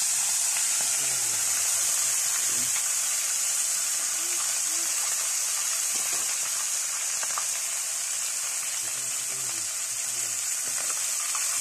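Fish head frying in hot oil in a wok-style pan: a loud, steady sizzle.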